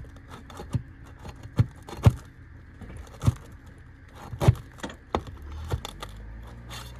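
Steel flat bar prying roofing nails out from under a shingle: a series of sharp metallic clicks and taps at irregular intervals, with some scraping.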